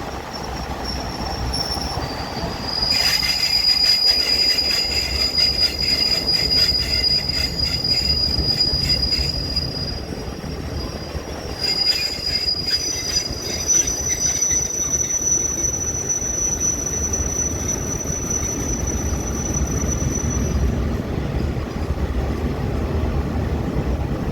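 Passenger train running on the rails, its steel wheels squealing in long steady high-pitched tones that jump higher about halfway through, over a low rumble. Two stretches of rapid clicking come from the wheels running over rail joints.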